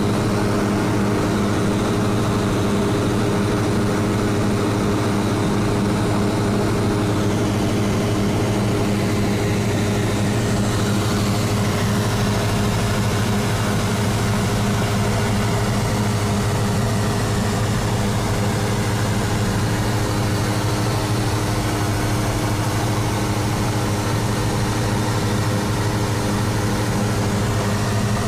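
Cessna 172's piston engine and propeller running at a steady cruise setting, a constant droning hum with no change in pitch.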